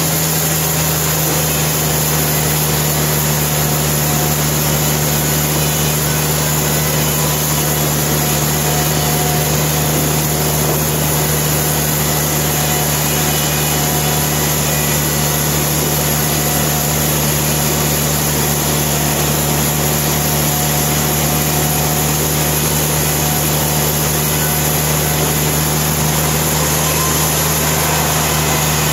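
Sawmill machinery running steadily: a constant engine drone with a strong low hum, unchanging in pitch and loudness.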